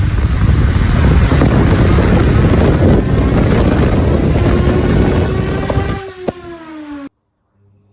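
Brushed electric motor driving a metal fan blade at very high speed, making a loud, even rushing roar. About six seconds in there are sharp cracks, the roar falls away, and a falling whine follows as the motor spins down before the sound cuts off.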